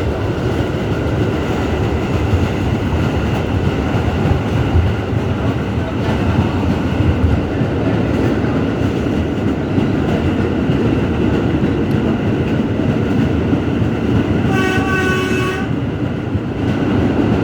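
R211S subway car running at speed on the Staten Island Railway, a steady rumble of wheels on rail. Near the end comes a brief horn blast of about a second.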